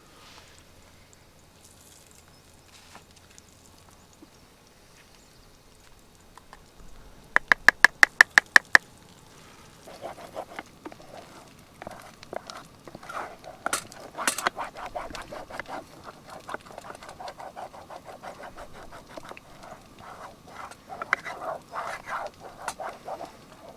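Animal calls: a fast run of about ten evenly spaced calls about eight seconds in, then busy, irregular calling for the rest of the time.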